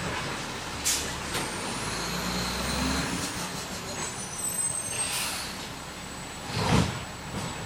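Garbage truck at work collecting yard waste: its engine runs steadily, with a couple of sharp clicks about a second in, a burst of air hiss about five seconds in, and a loud clank near the end.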